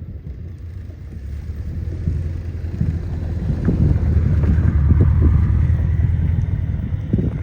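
Low rumble of a train passing at trackside, building over the first couple of seconds and staying loud, with scattered knocks and wind buffeting the microphone.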